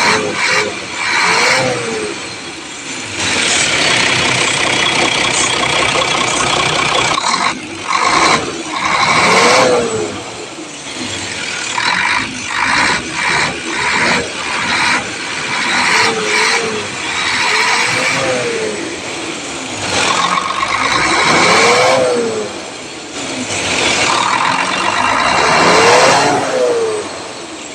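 Isuzu 6WF1 diesel engine running and being revved up and back down about six times, each rev a quick rise and fall in pitch, with stretches of rattling in between.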